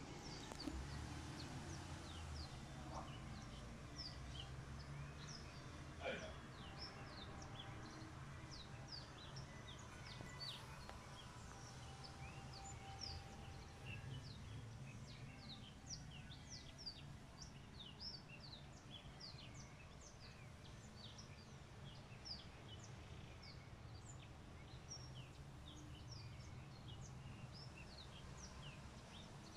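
Faint, dense chirping of many small birds, dozens of short high falling chirps, over a low steady background rumble.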